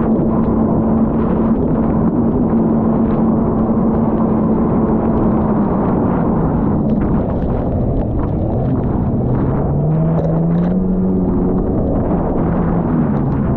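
Jet ski engine running hard with rushing noise. Its pitch holds steady at first, drops about six seconds in, then wavers up and down as the throttle changes.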